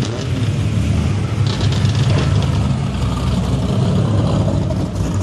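Car engine running close by with a steady low rumble.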